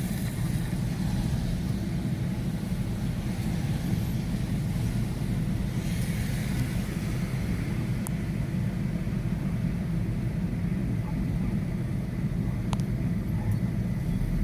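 Car on the move heard from inside the cabin: steady low road and engine rumble with a faint hiss over it, and a few light clicks near the end.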